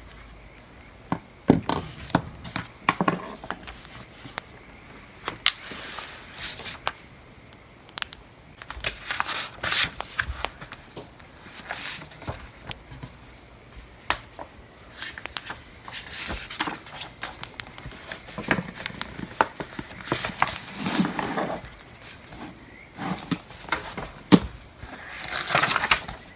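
Pencil or pen scratching on paper in short irregular strokes, over the sharp snapping clicks of a crackling wood fire.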